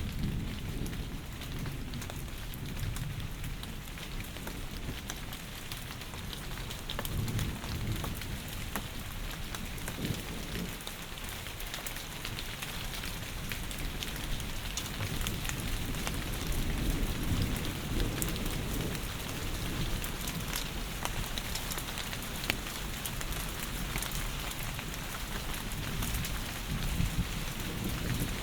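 Heavy rain pouring: a dense, steady hiss full of individual drop ticks. Underneath it, a low rumble swells and fades several times, most strongly past the middle.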